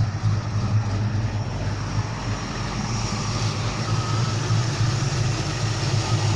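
Modified 351 Cleveland V8 with a 400 cam, idling steadily with no revs.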